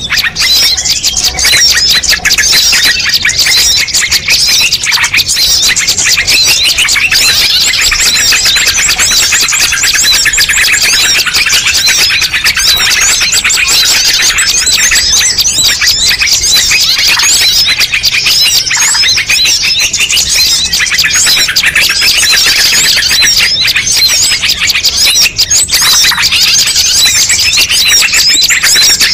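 A dense, continuous chorus of many small birds chirping and trilling at once, with no let-up: a bird-lure (pikat) recording of mixed songbird calls used to draw wild birds in.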